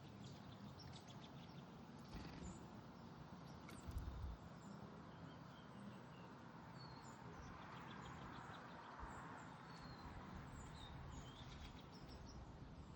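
Faint, scattered short chirps from small backyard songbirds over a steady low background hum, with a brief thump about four seconds in.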